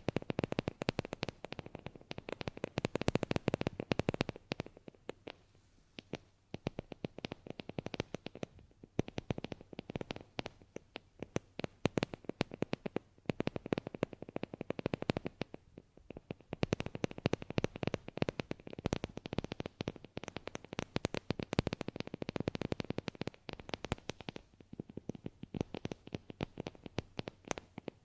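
Rapid, dense clicking and tapping close to the microphone, swelling and easing in waves every few seconds.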